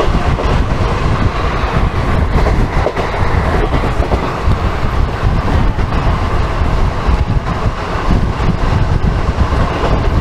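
Indian Railways passenger coach running at speed: a steady, loud rumble of wheels on the rails with a clattering clickety-clack over the track.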